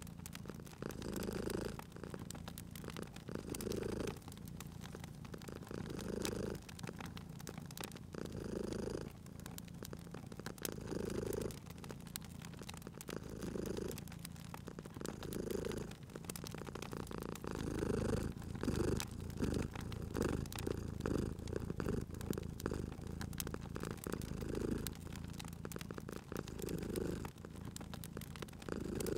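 Domestic cat purring, swelling and fading with each breath about every two seconds. Small pops and crackles from a wood fire run underneath.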